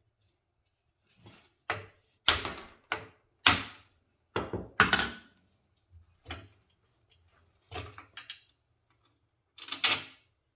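Hand tools and steel bolt hardware being handled on a locomotive chassis: a string of irregular clanks and rattles, about a dozen, with the busiest stretch in the first half.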